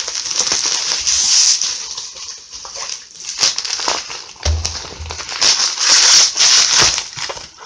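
Plastic mailer bag being torn open and rustled by hand, a crinkling, crackling rustle in uneven surges, loudest a little past the middle.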